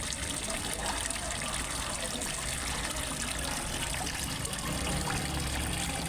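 Water trickling and splashing steadily into a fish pond from a small waterfall, with a low rumble swelling about five seconds in.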